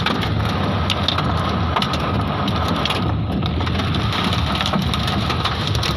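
Hailstones and heavy rain pelting down in a hailstorm: a dense, steady clatter of many sharp hail impacts over the hiss of the rain.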